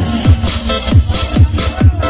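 Electronic dance music played loud through a 'sound horeg' carnival sound system, driven by heavy bass kicks that slide downward in pitch, several in two seconds.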